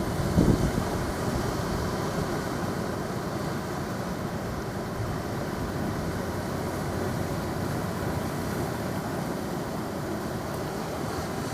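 Steady rush of ocean surf with wind noise on the microphone, including a couple of low thumps about half a second in.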